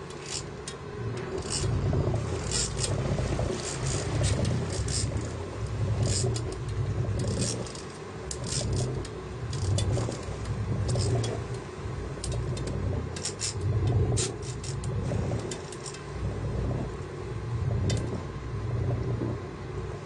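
A small fishing boat's motor running low, with sea and wind noise, as a rumble that rises and falls every couple of seconds. Scattered short, sharp clicks sound over it.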